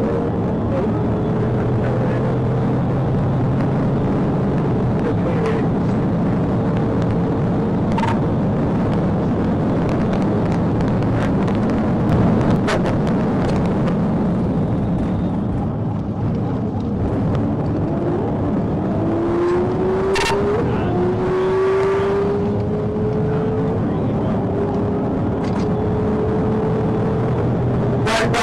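Patrol car driving hard at high speed: steady engine, road and wind noise, with the engine note climbing slowly and dropping back several times as it accelerates through the gears.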